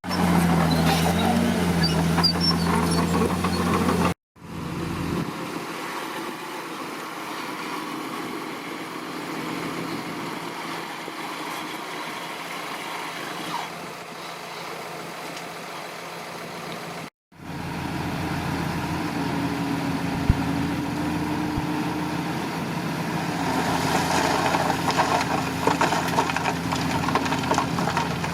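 Diesel engines of heavy earthmoving machines running steadily, in three spliced stretches separated by two abrupt brief dropouts. The engine note shifts slightly in pitch in the first few seconds and again in the last third.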